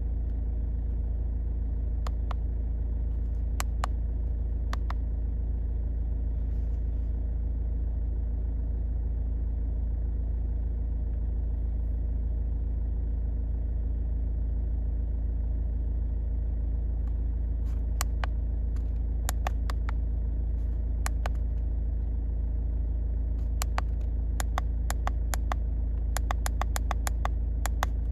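Car engine idling with a steady low rumble, while sharp clicks sound now and then, a few early and many in quick clusters in the second half.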